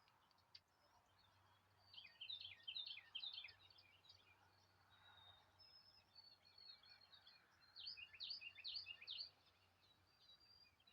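Faint songbirds chirping, with two bursts of rapid, quick-falling chirps about two seconds in and again about eight seconds in, over scattered quieter chirps.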